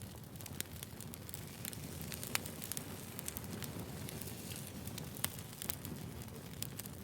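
Wood fire burning: a steady low rumble of flames with many irregular sharp crackles and pops from the burning logs.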